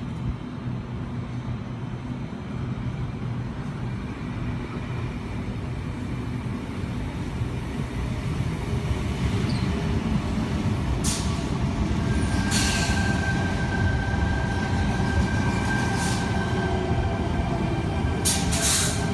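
Tangara electric multiple-unit train running through the platform without stopping: a low rumble that grows louder. From about halfway in come sharp clacks and a steady high whine.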